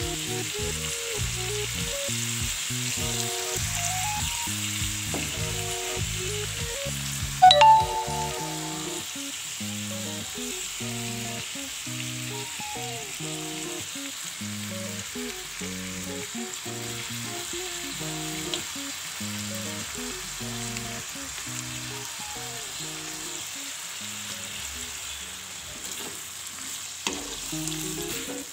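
Chicken stir-frying in a wok with a steady sizzle, stirred with a spatula, over background music. About seven seconds in there is one sharp clank with a short ring.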